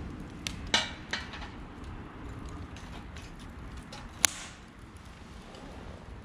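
A few sharp metal clinks and knocks of cookware being handled, a cluster in the first second and one sharp, ringing click about four seconds in, over a steady low background.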